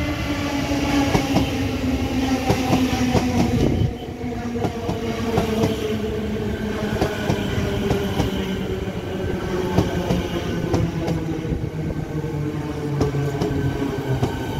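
A Siemens Nexas electric suburban train passes close by. Its wheels clack irregularly over the rail joints, and a whine from its traction motors falls slowly in pitch.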